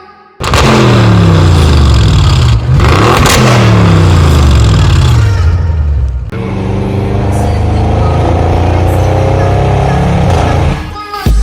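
Audi RS6 twin-turbo V8 with a Milltek exhaust, accelerating hard past at full throttle. Its pitch falls as it goes by, loudest about three seconds in. After a brief dip around six seconds the engine pulls again at a steady pitch for several more seconds.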